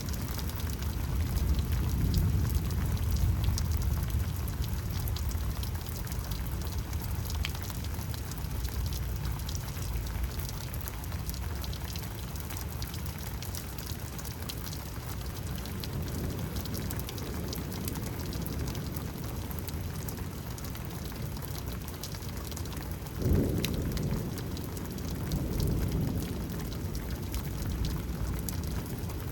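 Steady rain falling in a thunderstorm, with low rumbles of thunder swelling near the start and again later. About twenty-three seconds in comes one sudden, louder low thump, followed by more rumbling.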